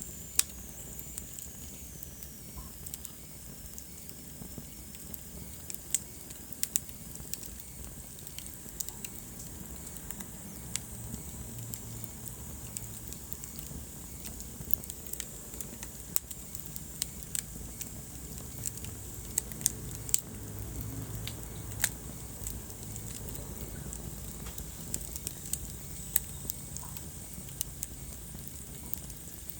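Wood fire burning in a fireplace: irregular sharp crackles and pops over a steady low rumble of flames. A faint high whistle sinks in pitch over the first few seconds.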